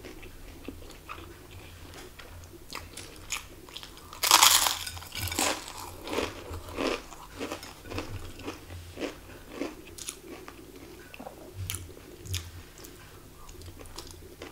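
Close-up mouth sounds of eating by hand: a loud crunchy bite about four seconds in, followed by a steady run of crunching chews of crispy food that fade out near the end.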